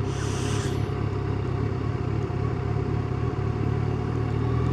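Yamaha FZ1's inline-four engine running steadily at low, even revs while the motorcycle is ridden, with a brief hiss in the first second.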